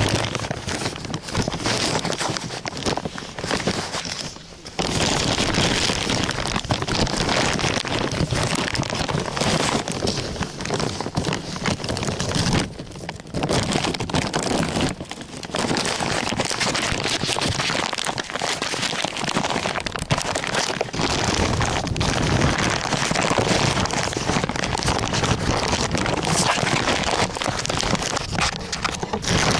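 Bonfire burning, with a dense, continuous crackling and hissing full of small sharp snaps.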